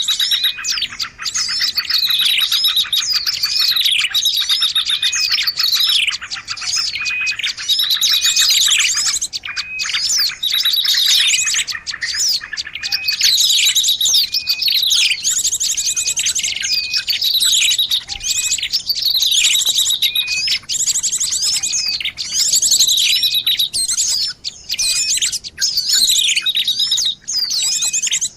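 Noisy bird-lure recording of many birds calling at once: dense, unbroken chattering with repeated down-sweeping calls and fast buzzy trills layered over each other.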